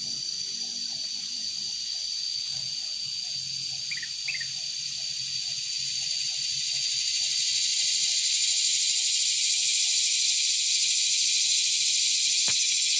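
A dense insect chorus buzzing steadily, getting louder from about halfway through. Underneath it a low call repeats about twice a second. There are two brief chirps about four seconds in and a single click near the end.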